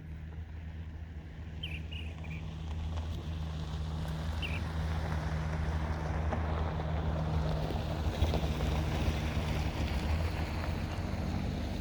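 A steady low engine hum under a rushing noise that grows louder after the first few seconds, with a few short bird chirps early on.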